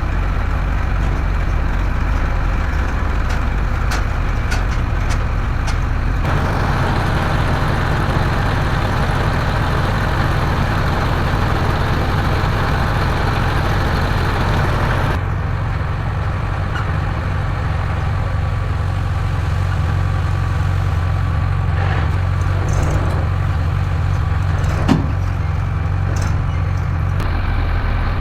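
Heavy diesel engine of working machinery running steadily, growing noisier for several seconds in the first half, with a single sharp clank near the end.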